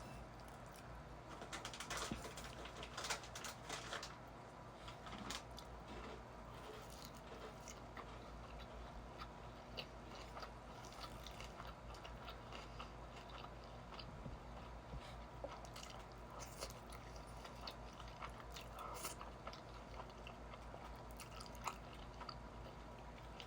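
A person chewing and biting food close to the microphone: many small wet mouth clicks and crunchy bites, the loudest about two to four seconds in, over a faint steady low hum.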